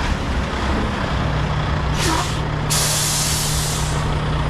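Diesel engines running steadily while a truck's air brakes hiss, a short hiss about two seconds in and a longer, louder one just after.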